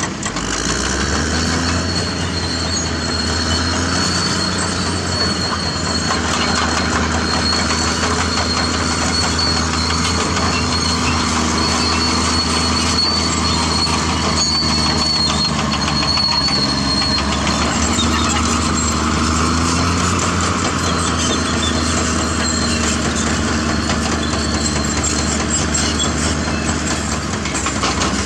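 CAT D6R crawler bulldozer working: its diesel engine runs steadily under load, picking up about half a second in, with the clatter of its steel tracks and a thin high squeal through the first two-thirds.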